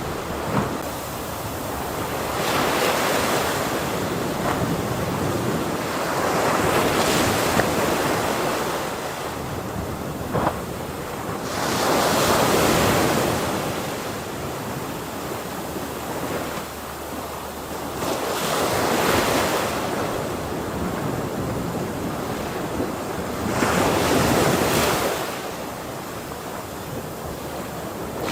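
Ocean waves breaking on a shore, the surf rising and falling in about five surges, each five to six seconds apart.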